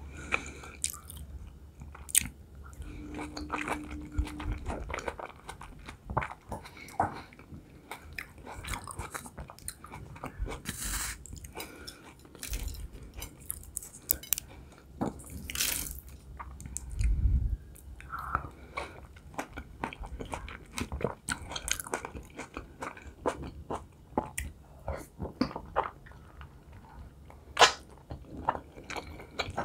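Close-miked chewing and biting of beef khinkali dumplings and fresh tomato, with many wet mouth clicks and smacks.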